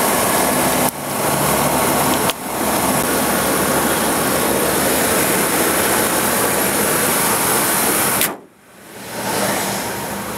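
Ford Excursion engine running with its cooling fan, heard up close in the open engine bay as a steady, loud mechanical noise. There are two short dips about 1 and 2 seconds in, and near the end the sound drops away sharply for about a second before returning.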